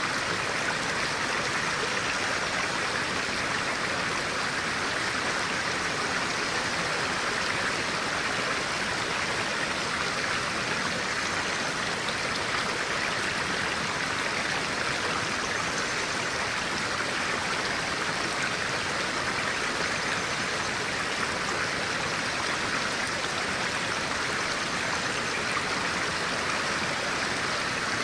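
Clear-water stream running steadily: an even, unbroken rush of water that does not change in level.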